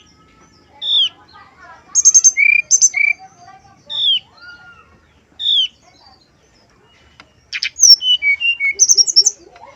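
Brown-chested jungle flycatcher singing: clear down-slurred whistles and short trilled phrases with pauses between them, and a quicker run of notes near the end.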